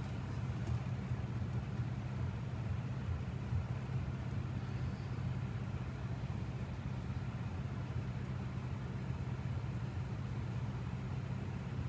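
Car engine idling at a standstill, a steady low hum heard from inside the cabin.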